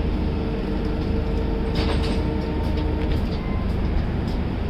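LHB passenger coach of a train pulling slowly out of a station, heard from its open doorway: a steady low rumble of the running gear. There is a sharp clack about two seconds in, a few lighter clicks, and a faint steady tone that stops about three seconds in.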